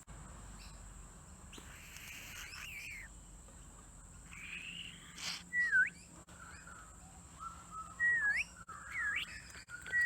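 Pet budgerigar chattering softly, then giving four short swooping whistles in the second half, each dipping in pitch and then rising sharply.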